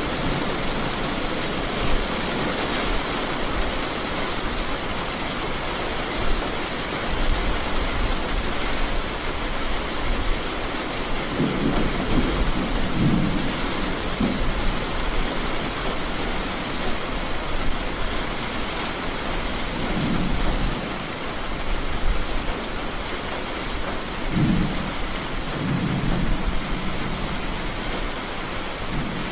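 Steady heavy rain falling, with low rumbles of thunder coming and going several times, the first about twelve seconds in.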